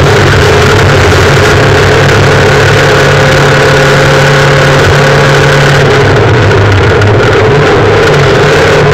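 Rally car's engine running hard at high revs, heard loud from inside the cabin with road noise over it; the pitch holds fairly steady, with a brief easing about six seconds in.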